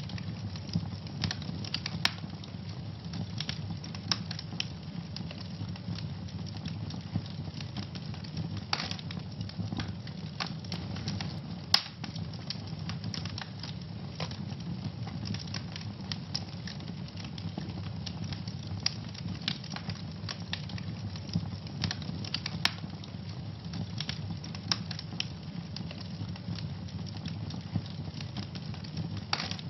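Wood fire burning in a fireplace: a steady low rumble of flames with frequent sharp pops and crackles at irregular intervals, one louder pop about twelve seconds in.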